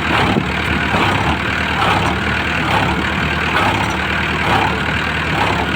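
Mahindra tractor's diesel engine running steadily at low revs.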